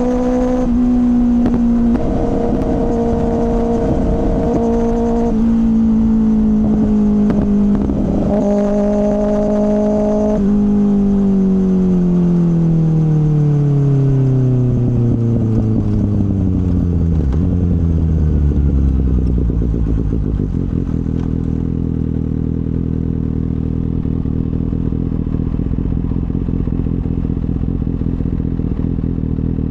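2024 Kawasaki ZX-6R's inline-four engine through an M4 slip-on exhaust. It holds a steady cruising note with a few small jumps in pitch. About ten seconds in, the revs fall smoothly over some eight seconds as the bike slows, and it settles into a steady low idle for the last ten seconds.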